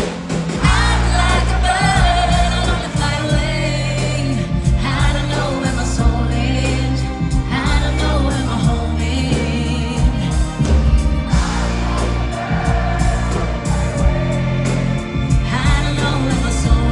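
Live pop band playing with sung vocals over a steady bass line.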